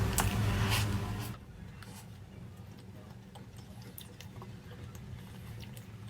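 A low steady hum that cuts off about a second in, followed by faint scattered clicks and wet smacks of an animal, likely a dog, eating.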